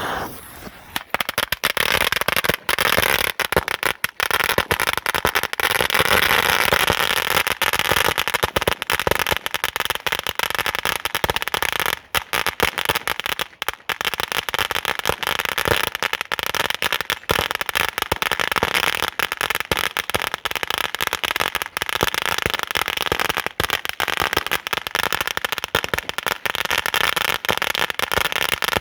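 A 20,000-count firecracker roll going off: a dense, continuous string of rapid pops that starts abruptly and crackles on without a break.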